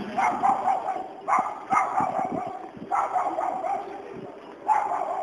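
A dog barking repeatedly in loud, sudden bouts.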